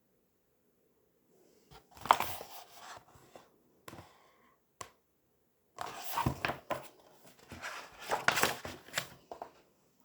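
Paper rustling and crinkling as picture-book pages are handled and turned, in two crisp bursts with a few sharp clicks between them, after a moment of near silence.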